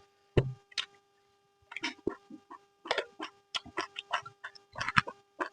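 Close-up eating sounds: irregular wet chewing and lip-smacking clicks, over a faint steady electrical hum.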